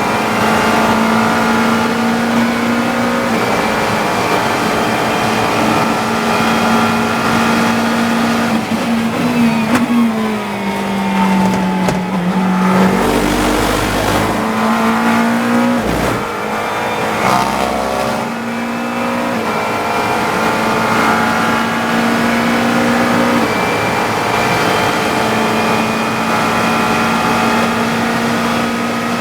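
GT3 race car engine heard from inside the cockpit, running at high revs on full throttle. About ten seconds in the engine note drops as the car brakes and slows, with a few low rumbles, and then it climbs back up as the car accelerates again.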